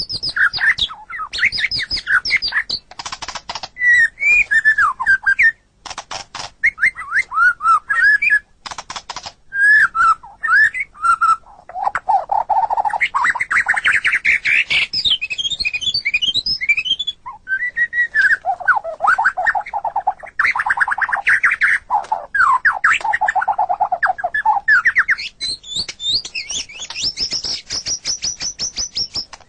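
White-rumped shama (murai batu) singing a long, varied song. Clear whistled phrases glide up and down, mixed with rapid chattering trills and harsh rattling notes, with short pauses between phrases.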